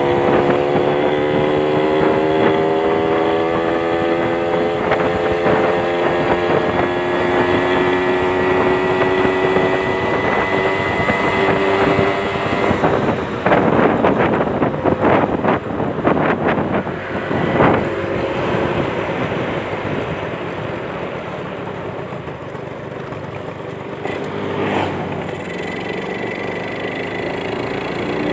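Yamaha Champ two-stroke motorcycle engine running through a racing exhaust, its note climbing slowly and steadily for about twelve seconds. It then turns into several seconds of ragged, uneven bursts before settling into a quieter steady run.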